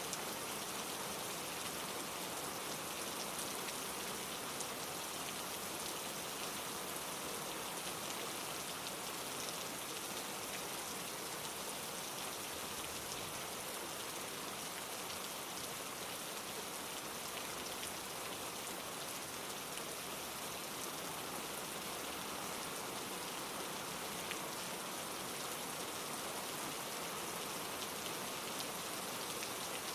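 Steady rain, many fine drops pattering on leaves.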